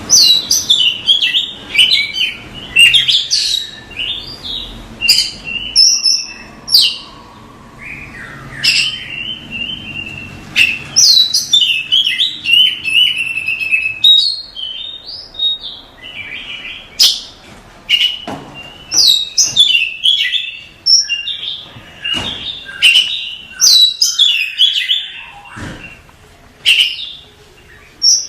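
Oriental magpie-robin (kacer) singing a loud, rapid, varied song of sharp chirps, whistles and quick up-and-down glides, with barely a pause.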